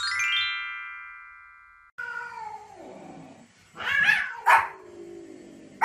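A bright chime rings and fades away over about two seconds. Then a small white spitz-type dog vocalizes: a falling, whine-like call, two loud sharp yaps about four seconds in, and another yap at the end.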